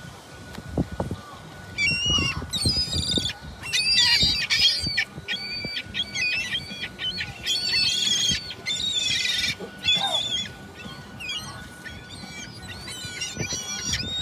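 Gulls calling: many short, high cries in quick runs, starting about two seconds in, over a faint steady tone.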